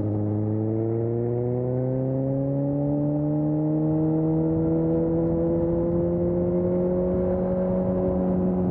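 2020 Suzuki GSX-S750's inline-four engine through an aftermarket Storm exhaust, pulling steadily in one gear, its pitch rising slowly and smoothly as the bike gains speed.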